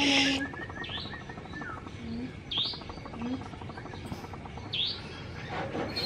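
Birds calling in the garden trees: a quick run of short chirps at first, then single chirps that dip and rise in pitch every second or two, with low notes in between. A short hiss sounds at the very start.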